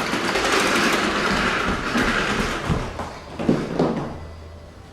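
Vacuum cleaner running with a steady rushing noise, dying down over the last second or so, with a few light knocks as it is pushed about.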